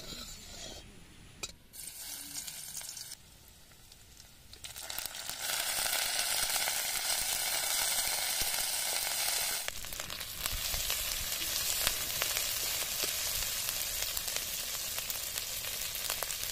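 Chopped aromatics sizzling in hot mustard oil in an aluminium kadai, stirred with a metal spatula that clicks and scrapes against the pan. The sizzle is faint and patchy at first, then a steady loud sizzle from about five seconds in.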